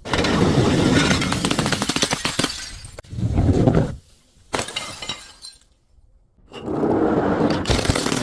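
Glass being crushed and shattering: it starts suddenly with dense crunching and crackling, then comes back in two more loud bouts, with a short crack in between.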